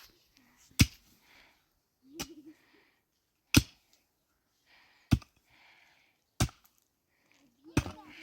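Firewood being chopped: six sharp strikes at an even pace, about one every second and a half.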